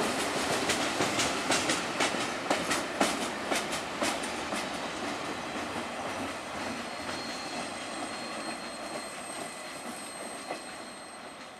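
Railcars of a passing train rolling on the track, their wheels clicking over rail joints in quick clusters for the first few seconds. After that the rolling noise grows steadily fainter as the train moves away.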